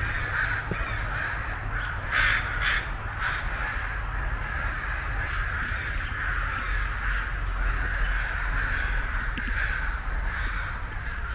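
Crows cawing repeatedly, with a cluster of loud caws in the first few seconds and a steady chorus of calling after that.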